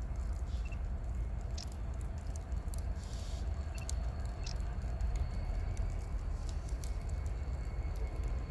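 Outdoor wind rumbling on the microphone, with scattered light ticks and a faint steady high tone setting in about halfway through.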